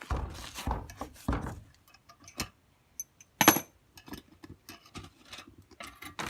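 Bird feeder being handled and forced open: irregular clunks, scrapes and rustles, with one sharp knock about three and a half seconds in.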